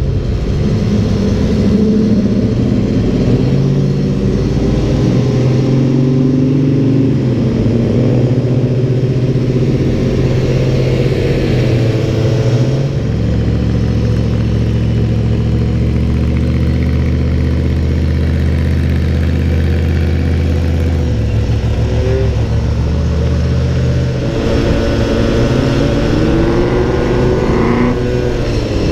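Car engines running at a car show: a steady, deep idle through the middle, with abrupt changes between engines. Near the end, engine revs rise repeatedly as a car accelerates.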